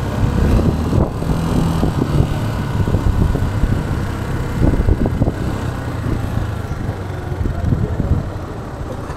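Motorcycle engine running at low speed, heard from the bike itself, with a steady low rumble and the sound of street traffic around it.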